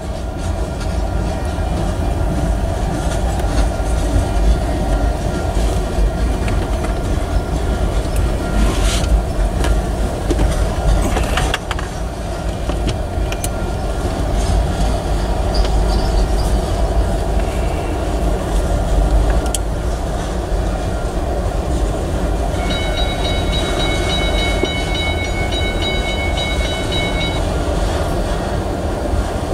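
Freight train tank cars rolling past at close range: a heavy steady rumble of wheels on rail with scattered clicks at the rail joints. In the second half a high-pitched squeal rises over it for about five seconds.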